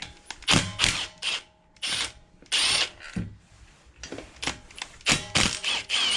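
A handheld power driver runs in about a dozen short, irregular bursts, backing out the fasteners that hold the ignition coil on a Predator 212 engine.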